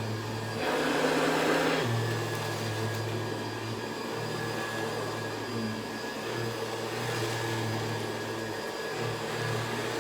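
Hoover Convertible upright vacuum cleaner running steadily, its motor giving a constant whine over a low hum. About a second in there is a louder rush of noise lasting about a second.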